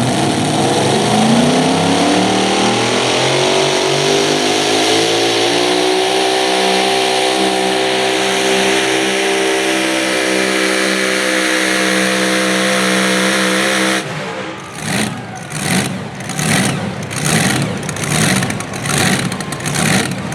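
Super modified four-wheel-drive pulling truck's engine at full throttle, climbing in pitch through the first few seconds and then holding high and loud down the track. About two-thirds of the way in it cuts off suddenly and gives way to a rougher, evenly pulsing engine sound.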